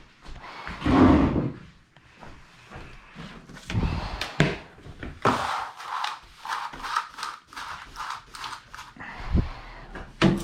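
Irregular thunks, knocks and scraping from household cleaning work: sweeping and handling cleaning gear and objects, the loudest burst about a second in, with no motor running.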